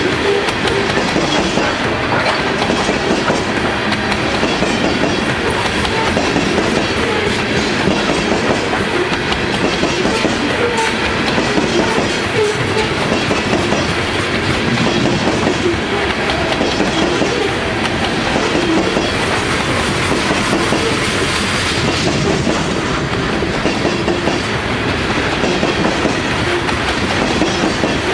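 Loaded coal hopper cars of a freight train rolling steadily past, steel wheels running on the rails.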